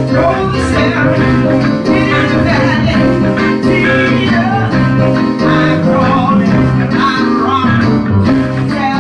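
Live church band music led by guitar over a stepping bass line, playing without a break.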